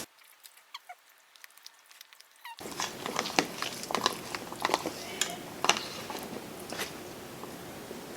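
Close-up eating sounds: wet mouth clicks and lip smacks from chewing, starting about two and a half seconds in after a near-silent stretch.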